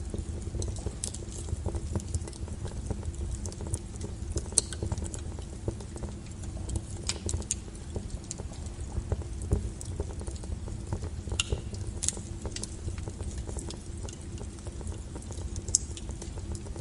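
Wood fire burning with a low steady rumble, and irregular crackles and sharp pops of the burning firewood scattered throughout.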